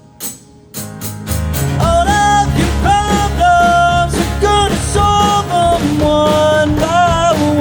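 Live punk rock band. A few sharp drum hits break a brief lull, then the full band comes in about a second in, with a held melody line over the guitars, bass and drums.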